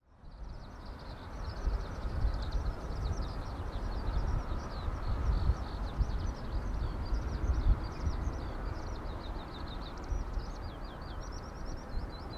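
A small songbird singing continuously in rapid, high, twittering chirps, over a steady low rumble.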